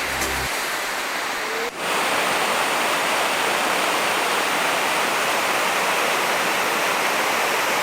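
Waterfall: a steady, even rush of falling water. Background music ends about half a second in, and there is a brief drop-out near two seconds.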